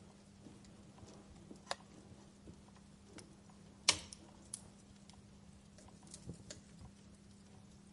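Wood fire crackling: scattered small pops and snaps, with one sharp, louder crack about four seconds in. A faint steady low hum runs underneath.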